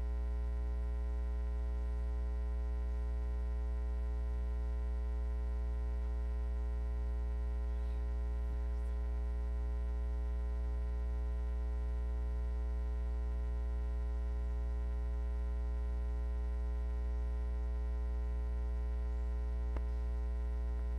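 Steady electrical mains hum with many evenly spaced overtones, unchanging in pitch and level.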